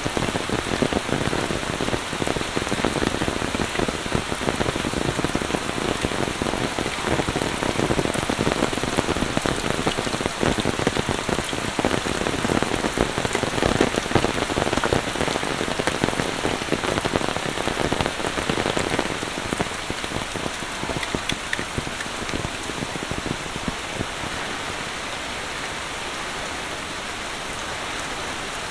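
Monsoon rain falling steadily, a dense patter of close raindrop hits over a hiss of rain, easing to a softer, even hiss in the last few seconds.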